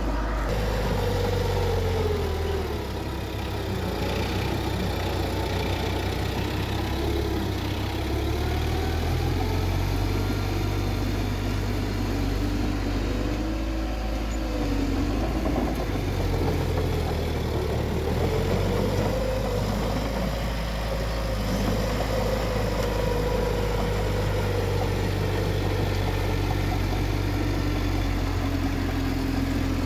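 Bulldozer's diesel engine running steadily, its pitch rising and falling slowly as the load changes.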